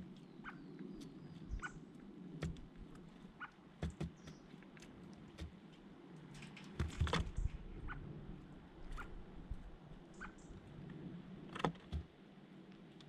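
Birds at close range giving short, sparse chirps among scattered taps and clicks, with a cluster of louder knocks about seven seconds in and another sharp one near the end.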